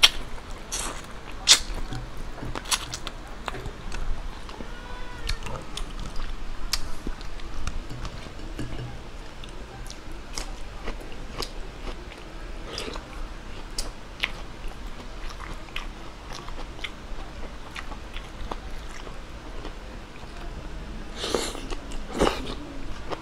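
A person chewing a mouthful of chicken adobo and rice eaten by hand, with frequent short mouth clicks throughout and a denser run of them near the end.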